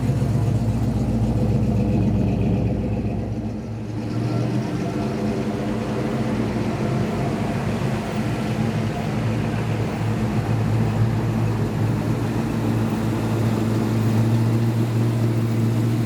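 Car engine idling, a steady low rumble that dips briefly about three seconds in and grows a little stronger near the end.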